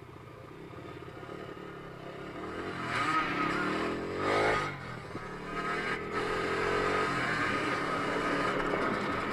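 Dirt bike engine running, growing louder over the first three seconds, with a rising rev about four seconds in, then holding a steady pitch.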